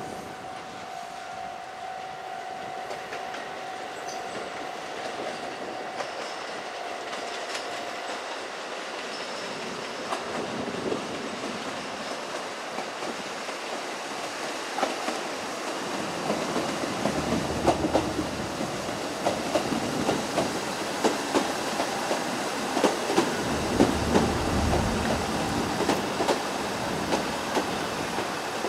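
JR East KiYa E195-1000 diesel rail transport train running past, its wheels clicking over rail joints and points. It grows louder through the second half, with a low rumble from its engines.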